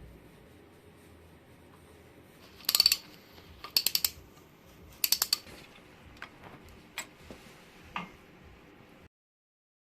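Sharp metallic clicks and clinks of small metal parts being handled in a workshop. They come in three quick clusters, then a few single clicks.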